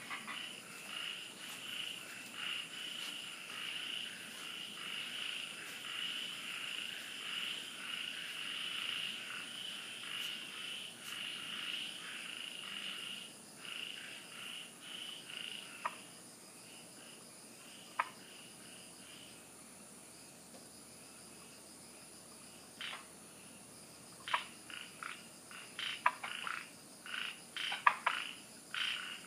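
A chorus of frogs calling at night, dense and continuous for about the first half, then dying away. After that come single sharp calls a few seconds apart, which crowd together again near the end. A faint, steady high-pitched insect trill runs underneath.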